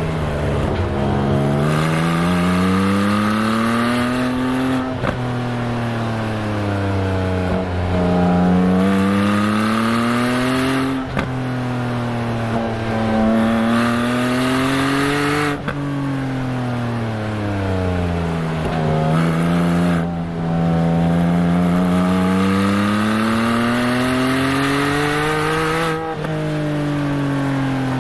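Exhaust of a Porsche 718 Spyder's naturally aspirated 4.0-litre flat-six, picked up at the rear bumper while driving. The pitch climbs and falls over and over, with a sharp break every five seconds or so as the PDK gearbox changes gear. At low revs the bumper microphone makes the note sound flatulent.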